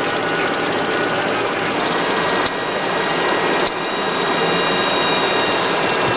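Steady flight-deck noise of a Boeing 737-200 freighter on the ground: a rough machine hum with several steady high whining tones over it. The level steps down slightly twice, about two and a half and three and a half seconds in.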